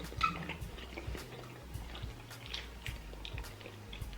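Wet mouth sounds of people eating: chewing and lip-smacking, with scattered small clicks over a low steady hum.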